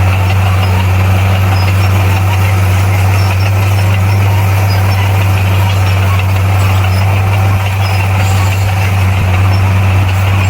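Bulldozer's diesel engine running at a steady speed, a deep even drone that holds without change.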